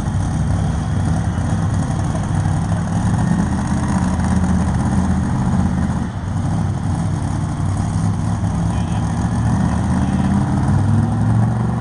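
Pulling truck's engine running hard under load as it drags the weight-transfer sled down the track, with a brief dip about six seconds in.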